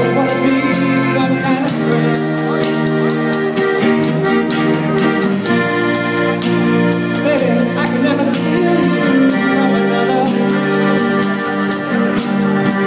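Band music: sustained organ- or accordion-like chords over a steady drum beat, with a wavering melodic line above.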